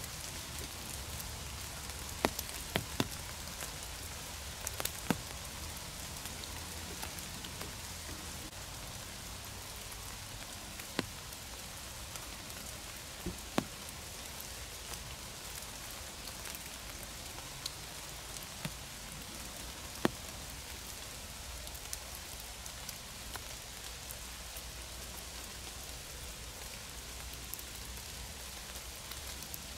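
Steady rain falling through forest foliage: a constant hiss, broken by scattered sharp taps of single large drops.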